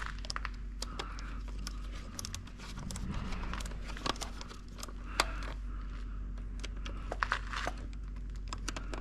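Light crinkling and scattered sharp clicks of small parts being handled, a few louder clicks near the middle and toward the end, over a low steady hum.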